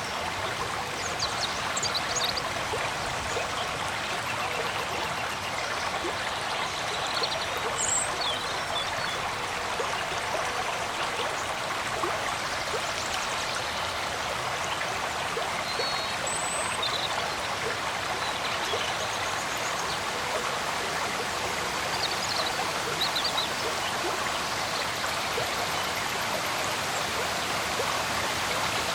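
Steady rushing and trickling of a forest stream, with a few short, faint high chirps scattered through it.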